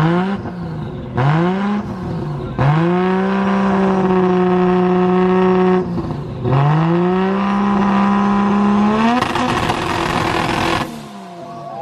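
Modified tuner car engine revving hard: a few quick rising revs, then held at high, steady revs for about three seconds, dropping and climbing again to another long hold. Near the end the engine gives way to a rougher rushing noise.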